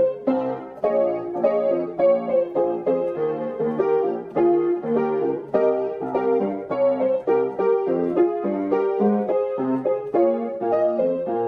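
Background piano music: a steady stream of quick notes, with no engine sound standing out.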